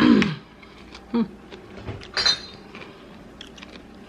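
A woman's short vocal sounds, the first falling in pitch, then a brief sharp hiss of breath, with light clinks of tableware.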